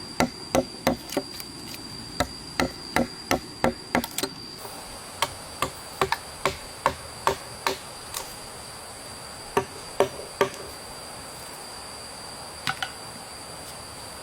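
A hand tool striking again and again, sharp blows in quick runs of about two to three a second that thin out toward the end. Behind them insects drone steadily on one high note.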